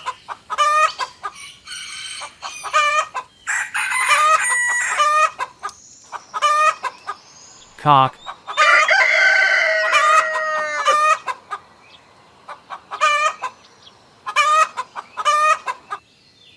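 A hen clucking in short, repeated calls. About halfway through, a rooster crows one long cock-a-doodle-doo, and then the clucking goes on.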